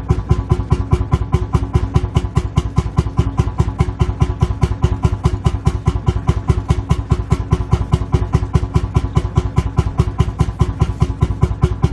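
Lanz Bulldog tractor's single-cylinder two-stroke hot-bulb engine idling, a steady, even thumping of about four to five beats a second.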